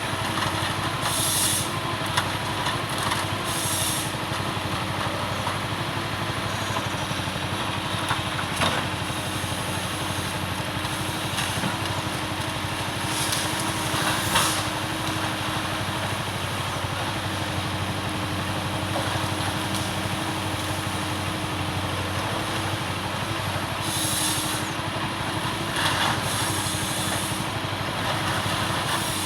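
Forestry harvester's diesel engine running steadily under work, with several brief bursts of higher-pitched noise and a sharp knock about nine seconds in.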